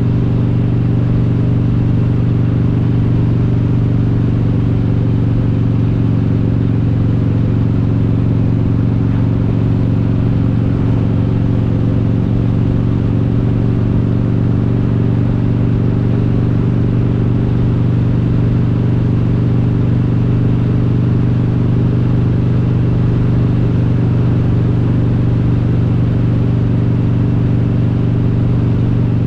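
Harley-Davidson Road King's S&S 95-cubic-inch V-twin with Super Stock cylinder heads, running under way at a steady engine speed, its exhaust note holding an even pitch throughout.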